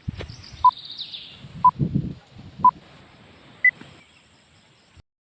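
Short electronic countdown beeps, one a second: three at the same pitch, then a higher final beep. Small birds chirp in the background and there is some low rustling. All sound cuts off abruptly about five seconds in.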